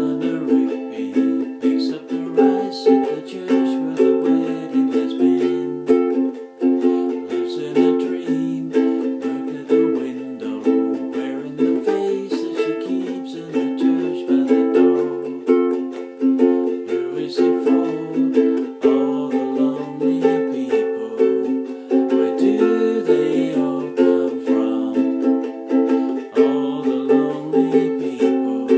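Ukulele strumming chords in a steady rhythm, an instrumental passage without singing.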